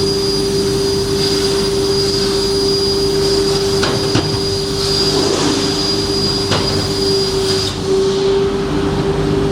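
CNC plasma cutting machine running: a steady hum with a high whine over it that cuts off about eight seconds in, and a few sharp clicks.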